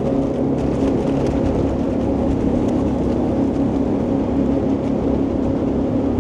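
Jet boat's marine engines running steadily under way, a constant drone with an even pitch.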